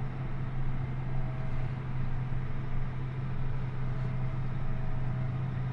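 John Deere 8400R tractor's diesel engine running at a steady speed: an even, unbroken low drone.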